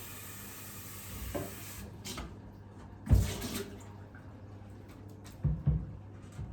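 Water running from a tap as a steady hiss that is shut off about two seconds in, followed by several knocks and clunks of things being handled at the sink, the loudest about three seconds in and a quick pair near the end.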